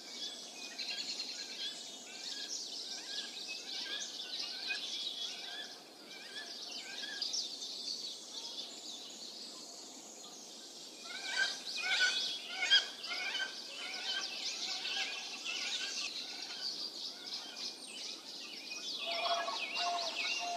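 Small birds chirping and calling continuously with high, rapid chirps. A louder burst of quick calls comes about eleven seconds in, and a lower repeated note starts near the end.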